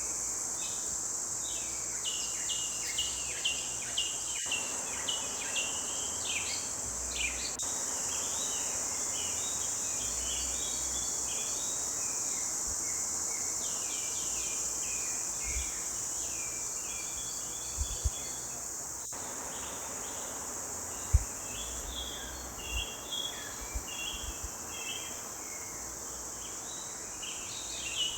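Forest chorus of several songbirds singing in quick chirps and trills over a steady high-pitched insect drone. A few dull low thumps partway through.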